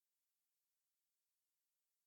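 Near silence: no audible sound, only faint hiss.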